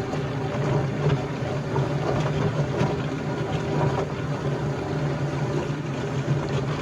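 Electric chicken plucker running with two big old roosters tumbling inside: a steady motor hum with irregular knocks and wet slapping of the birds in the drum.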